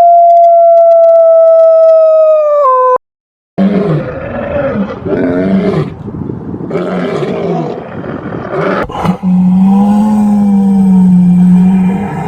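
A wolf howls on one long, steady note that drops off and stops about three seconds in. After a short silence, a large carnivore growls and roars in rough, rising and falling calls, ending in a long steady roar.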